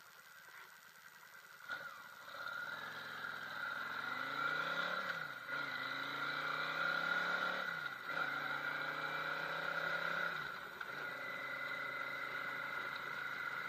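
Yamaha V Star 650 V-twin motorcycle pulling away from a stop, heard from a helmet camera. After a click, the engine rises in pitch, drops at a gear change about five seconds in, rises and shifts again about eight seconds in, then runs steadily, with a steady high whistle over it once the bike is moving.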